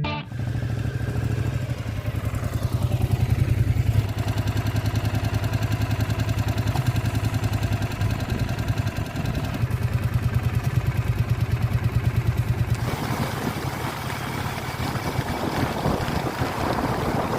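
Motorcycle-and-sidecar engine running steadily with a rapid low pulse; about three-quarters of the way in, a broader hiss of noise joins it.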